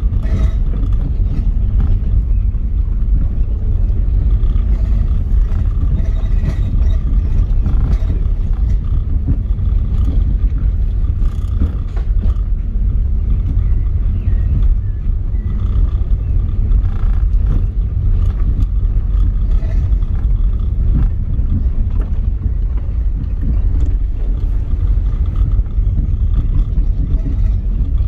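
A vehicle driving along: a steady, loud low rumble that carries on without a break.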